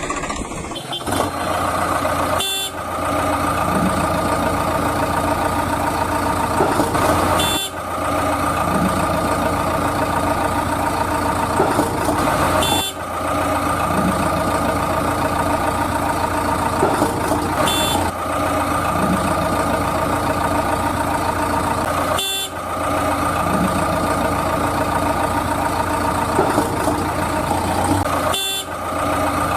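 Heavy vehicle engine running steadily, a looped sound effect that repeats with a short dip about every five seconds.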